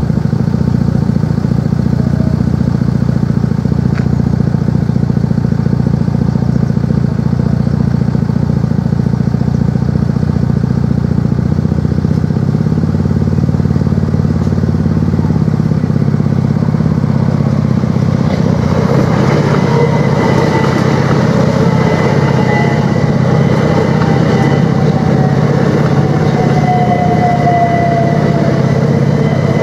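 A car's engine idling steadily. About eighteen seconds in, a Class 375 Electrostar electric train comes in over the crossing, a rising rush with a whine that falls slowly in pitch as it slows to stop at the station.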